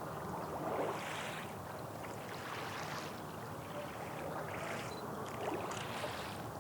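Small waves lapping and splashing at the water's edge, a swell of wash coming every second or two over a low steady rumble.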